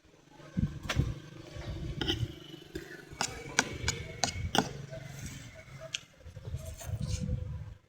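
A person eating tilapia close to the microphone: chewing and mouth sounds, with a run of sharp clicks and smacks in the middle.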